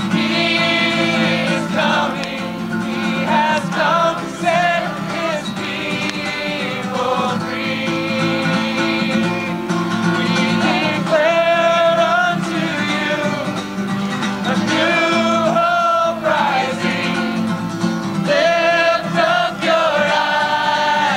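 Voices singing a Christian worship song to acoustic guitar accompaniment, with long held notes.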